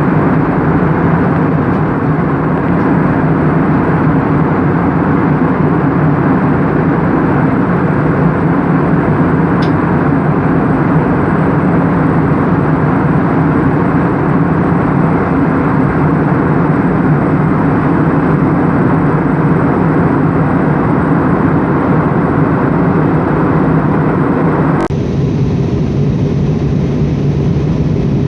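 Steady cabin noise of an airliner in flight: a constant rushing drone with a low hum. About 25 s in it abruptly turns duller.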